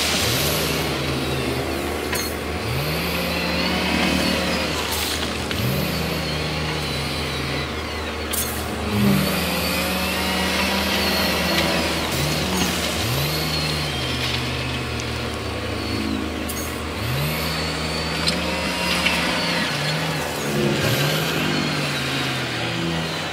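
Heavy earthmoving machinery engines revving over and over, each rev rising sharply in pitch and then settling, about every one to two seconds, over a steady low engine hum that drops away near the end. A few sharp clicks are heard.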